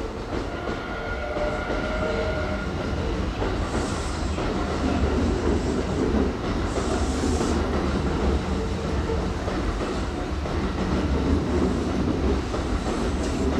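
Hanshin Railway electric train moving through the station, its wheels clattering over the rail joints under a steady mechanical din with a few held tones.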